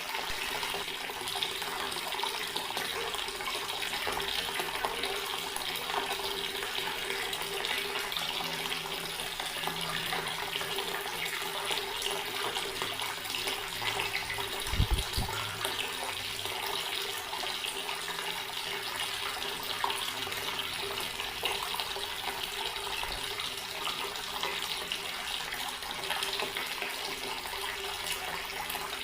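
Water running steadily from a tap, with a brief low thump about halfway through.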